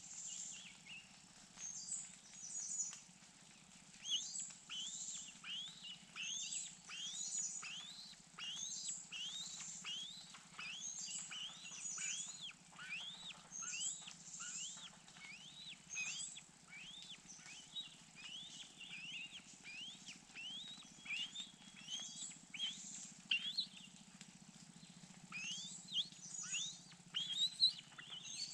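Birds calling: a long run of short, upslurred whistled notes, one or two a second, with higher chirps mixed in.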